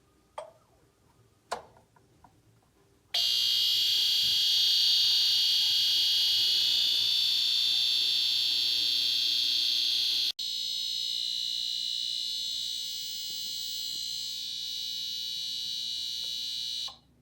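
De'Longhi HMP1500 mica panel space heater buzzing, a sound whose cause is not yet known. It is a loud, steady, high-pitched buzz that starts suddenly after a couple of faint clicks, breaks off for an instant past the middle, then carries on a little quieter and stops just before the end.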